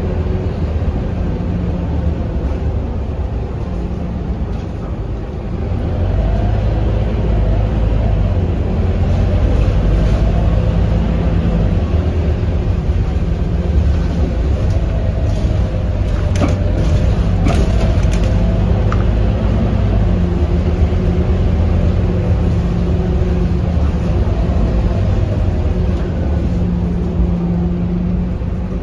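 Scania K230UB bus's diesel engine running as the bus drives, a steady low rumble that grows louder about six seconds in. A few brief clicks come near the middle.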